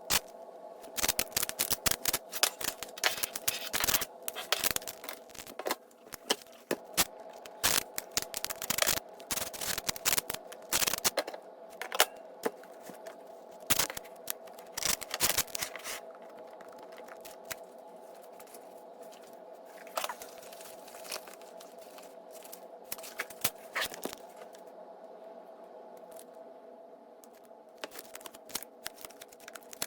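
Hands working on a battery-pack assembly at a workbench: irregular clicks, scrapes and rustles of small parts and wires being handled, over a steady hum. The clicks are dense for the first half and thin out after about sixteen seconds.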